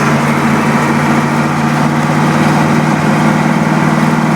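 Caterpillar 3208 V8 diesel in a Ford truck running steadily while driving, with true dual exhaust, heard from inside the cab as an even, unbroken engine drone.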